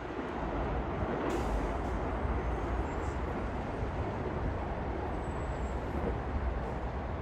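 Metro-North commuter train running past the platform: a steady low rumble with rail and wheel noise.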